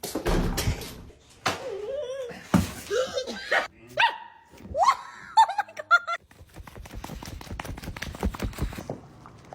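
A dog vocalising in short calls that slide up and down in pitch, after a loud noisy burst at the start. A fast run of clicks or taps fills the last few seconds.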